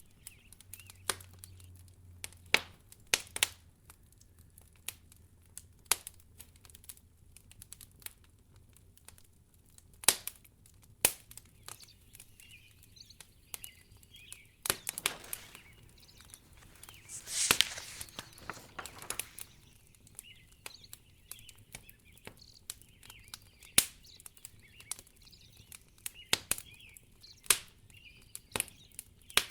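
Wood fire crackling in a fireplace: irregular sharp pops and snaps, with a few seconds of louder rustling hiss past the middle.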